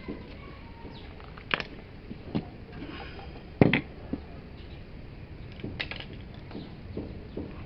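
Irregular knocks and clicks of hard objects being handled, the loudest a sharp knock about three and a half seconds in.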